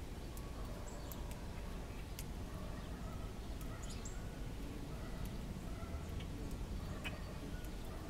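Faint, scattered bird chirps and small ticks over a steady low background rumble.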